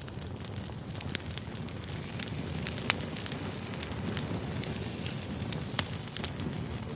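Firewood burning, with irregular sharp crackles and pops over a low, steady rumble of flames. The sharpest pops come about three seconds in and again near six seconds.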